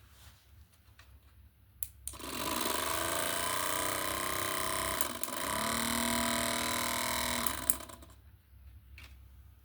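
A small electric motor is switched on with a click about two seconds in. It runs steadily with a whirring hum for about five seconds, its pitch dipping briefly midway, then is switched off with a click.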